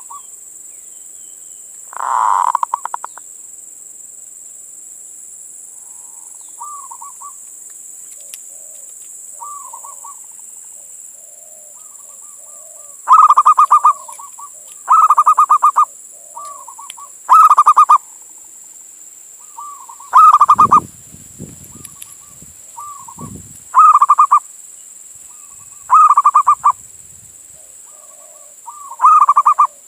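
Male zebra dove (perkutut) cooing its rolling, burbling song to call a female. There is one loud phrase early on, then loud phrases about every two seconds from the middle on, with softer coos in between.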